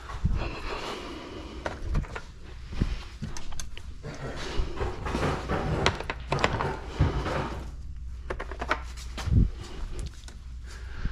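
Scattered knocks, clicks and thunks of parts and tools being handled on a workbench, over a steady low hum, with one louder thump about nine seconds in.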